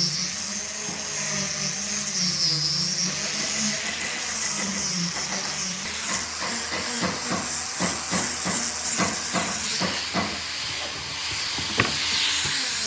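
A woodworking power tool running with a steady hiss and a low hum that wavers in pitch, with a quick run of taps in the second half and one sharp click near the end.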